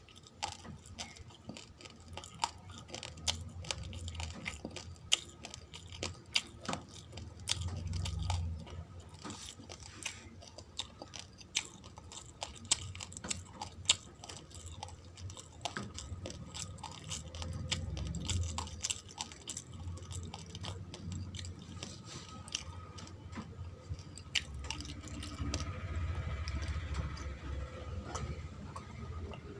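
Raw, uncooked rice grains being chewed: a dense, continuous run of sharp crunches and cracks, several a second, over a steady low chewing.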